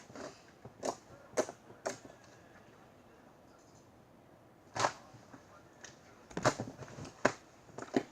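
Cupcake slime being pressed and squeezed by hand, giving sharp crackling pops as air pockets burst: three about half a second apart, a pause, one more, then a quick run of pops near the end.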